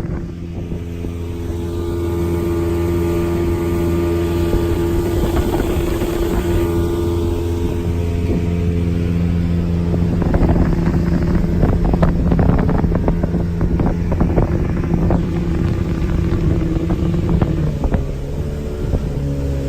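Speedboat's outboard engine running steadily underway, with wind buffeting the microphone. From about halfway through, the hull knocks repeatedly on the water.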